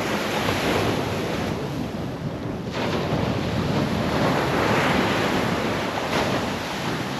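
Ocean surf washing onto the beach, swelling and fading, with wind buffeting the microphone.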